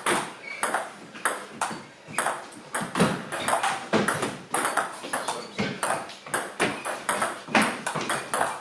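A squash rally: the ball is struck by rackets and smacks off the court walls in a quick, irregular run of sharp hits.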